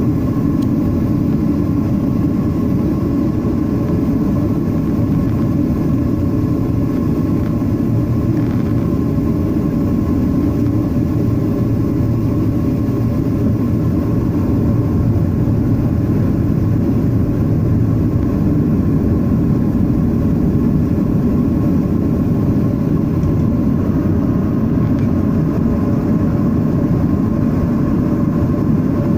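Boeing 737-800 in flight, its CFM56 turbofan engines and the airflow making a steady, unchanging drone, with a faint steady hum above it.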